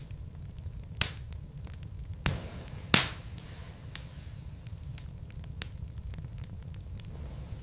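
Wood fire burning in a fireplace: a steady low rumble of the flames under frequent small crackles, with three loud sharp pops from the logs about one, two and a quarter, and three seconds in, the last the loudest.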